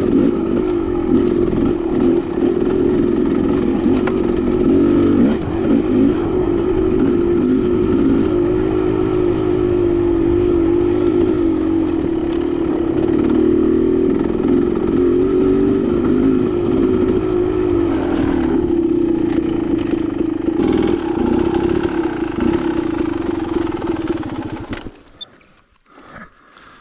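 Dirt bike engine running as it is ridden along a rocky single-track trail, its pitch wavering with the throttle, with some clatter over the rocks. Near the end the engine cuts out abruptly and it goes nearly quiet.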